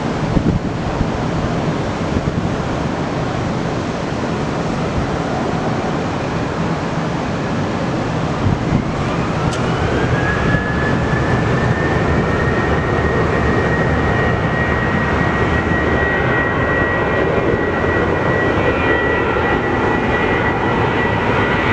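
Jet airliner engines running, with wind noise on the microphone. About nine seconds in, a whine rises in pitch, then holds as a steady high tone while the engines grow a little louder: the engines spooling up to takeoff thrust.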